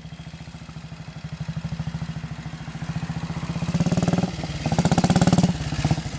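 1941 Matchless G3 WD motorcycle's 350cc single-cylinder engine running with an even firing beat, getting louder in two surges about four and five seconds in.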